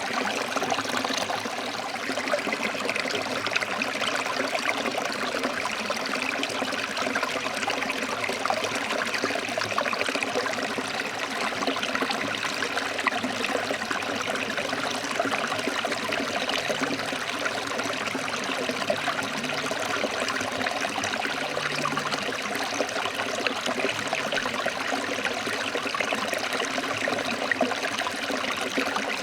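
Forest stream flowing over rocks, a steady even rush and trickle of water.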